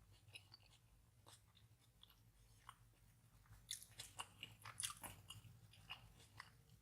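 Faint chewing and wet mouth clicks of someone eating, mostly in a short cluster a little past the middle.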